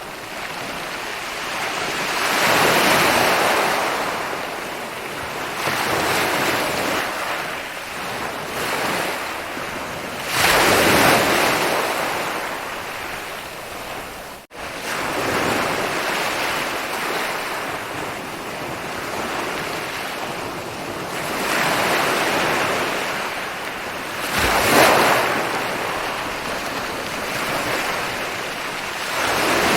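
Ocean waves breaking and washing up a shore, swelling and fading every few seconds, one after another. The sound drops out for an instant about halfway through.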